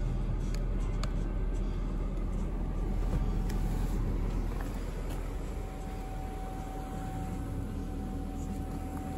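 BMW 740i E38's 4.4-litre V8 idling steadily while warming up. A faint steady whine joins about halfway through.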